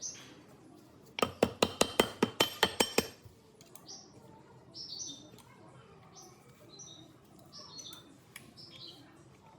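A quick run of about a dozen sharp metallic taps with a ringing tone, lasting about two seconds, followed by birds chirping faintly in the background.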